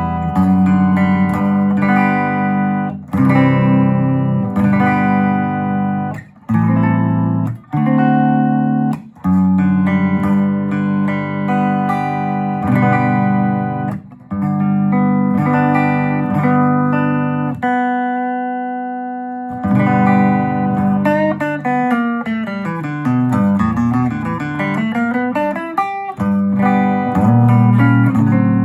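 Electric guitar with humbucking pickups, a Les Paul-style gold top, played through a restored circa-1965 Gibson GA-25RVT Hawk tube amp. Chords are cut off by short stops, and one chord rings out and fades about two thirds of the way through. A run of single notes goes down and back up, then chords resume.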